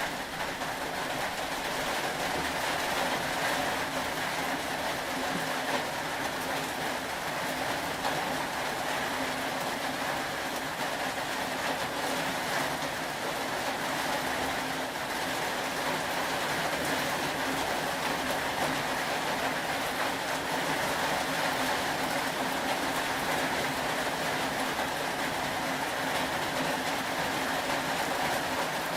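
Steady rain ambience: a constant, even hiss with no distinct drops or events.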